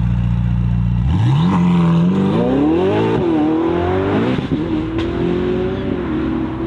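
Sports car engine accelerating hard. A steady low rumble for about a second, then the engine note climbs, dips twice as it shifts up, and settles into a steadier higher drone.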